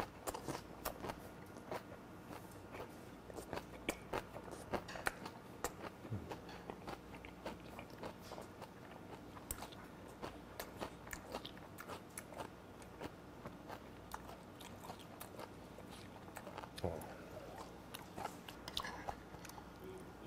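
Close-up chewing of a mouthful of fermented skate (hongeo) wrapped with oyster and kimchi: crunchy, wet chewing with many small irregular clicks, and a few louder clicks near the end.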